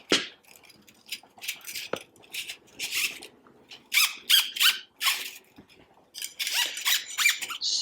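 A cleaning brush scrubbing keg parts in a series of scratchy strokes, with short squeaks.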